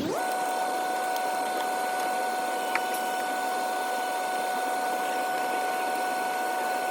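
A steady machine hum, pitched up by fast-forward playback into a high, even whine, with one click near the middle. The pitch slides up at the start and back down at the end.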